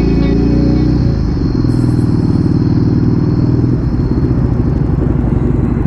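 Yamaha Drag Star V-twin motorcycle engine running steadily under way, a low pulsing rumble with road noise. Background music fades out about a second in.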